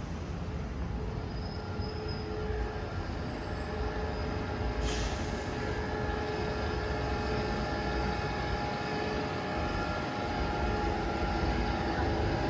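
Electric train running close by: a steady rumble with a whine of several tones that builds and slowly grows louder, and a brief hiss about five seconds in.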